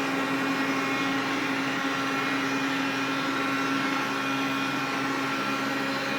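Xiaomi vacuum cleaner running steadily: a constant motor hum with several steady higher whining tones over the airflow noise.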